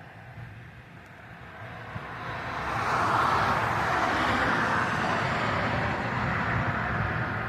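A vehicle passing by: a steady rushing noise builds over a couple of seconds, holds, then fades away near the end.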